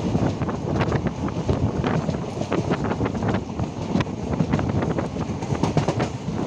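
Passenger train running along the track: a steady low rumble with many quick, irregular clicks and knocks from the wheels and carriage, and wind buffeting the microphone.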